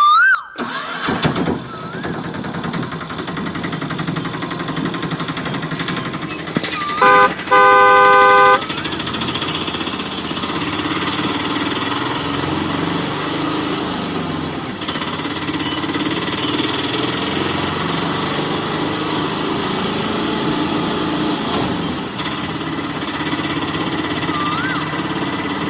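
Vehicle engine running steadily, with a horn honking twice about seven seconds in: a short beep, then a longer one.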